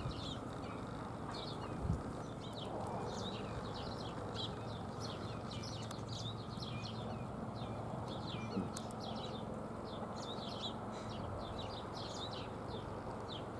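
Small birds chirping outdoors, many short high notes in quick succession over a steady low background rumble, with a single dull thump about two seconds in.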